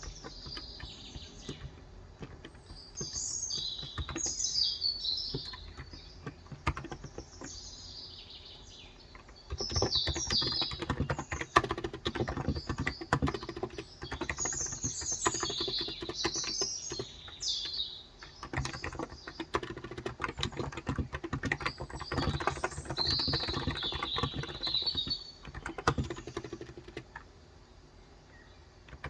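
Fast, steady typing on a Cox Endeavour electro-capacitive (Topre-style) tenkeyless keyboard with light 35 g keys, starting about a third of the way in, breaking briefly past the middle and stopping a few seconds before the end. Birds chirp in short high phrases throughout.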